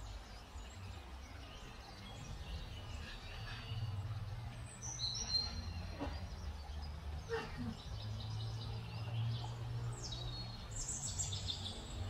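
Small songbirds chirping and twittering in short high calls, busiest about five seconds in and again near the end, over a low steady rumble of outdoor background noise.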